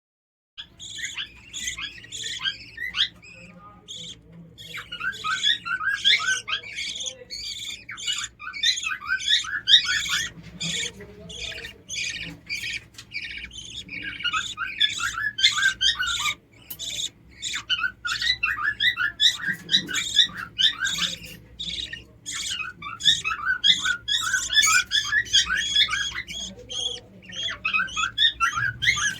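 Lovebirds chirping in rapid, dense runs of short high squeaky calls, broken by brief pauses: the calls of a lovebird chick being fed.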